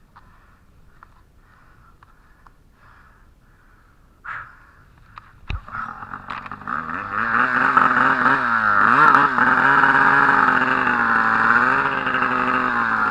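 Turbocharged Arctic Cat M1000 snowmobile's two-stroke twin engine. After a quiet stretch and a sharp knock about five and a half seconds in, it comes up on the throttle and runs loud, its pitch rising and falling as the rider works the throttle.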